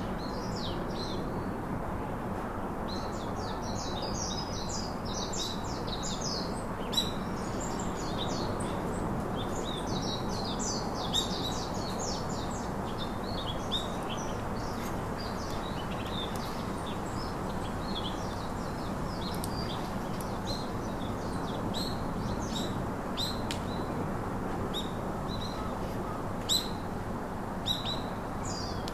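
Birds chirping: many short, high chirps in quick runs, thickest in the first dozen seconds and then more scattered, over a steady background hiss. A few sharp clicks stand out, one about seven seconds in and a couple near the end.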